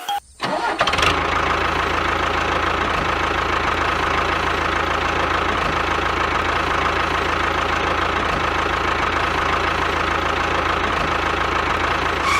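A small engine running steadily at an even idle-like pace, starting just after a brief drop-out near the beginning.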